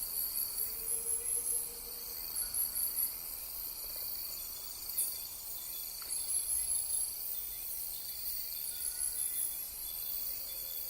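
Night insect chorus: crickets keep up a steady high trill while short runs of rapid, very high-pitched chirps come and go every second or two.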